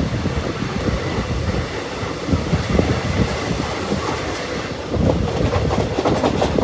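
Express passenger train running on the rails: a steady rumble with irregular wheel knocks, growing louder and busier with clatter from about five seconds in.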